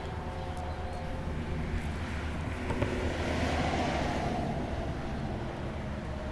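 A vehicle engine running with a steady low hum. A rush of noise swells and fades in the middle.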